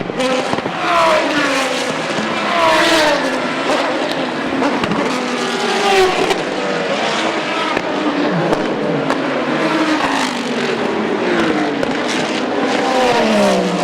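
Several GT race cars passing one after another at speed. Their engine notes overlap, and each one falls in pitch as it goes by.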